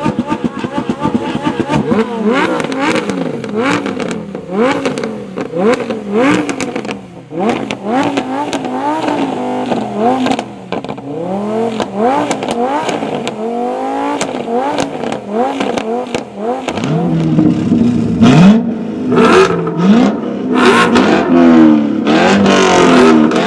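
Performance car engine revving hard, its pitch climbing and dropping again and again in quick sweeps, with sharp cracks along the way; it gets louder over the last several seconds.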